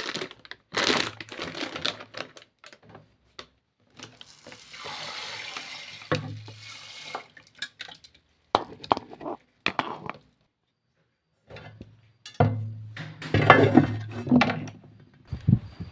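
Kitchen handling sounds: pots and dishes clattering, with water running or being poured for a few seconds near the middle.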